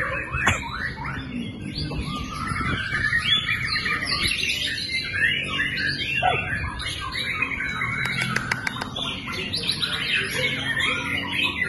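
White-rumped shamas (murai batu) singing non-stop: dense, overlapping whistled phrases and chatter, over a steady low background murmur, with a few short sharp ticks in the second half.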